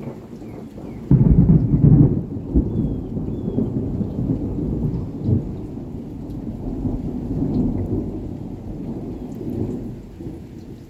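Thunder: a loud clap about a second in, then a long low rolling rumble that slowly fades, with rain falling.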